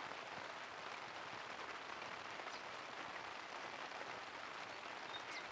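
Steady rain falling, a fairly faint, even hiss.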